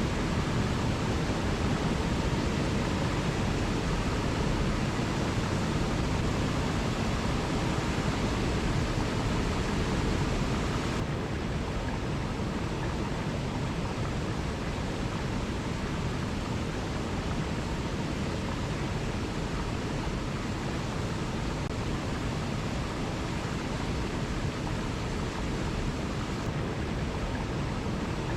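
Waterfall: a steady rush of falling water, a little softer and duller from about eleven seconds in.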